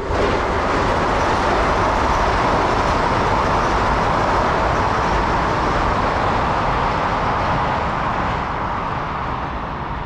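Steady, loud rush of wind and water from the bass boat running under way. It starts suddenly and eases a little near the end.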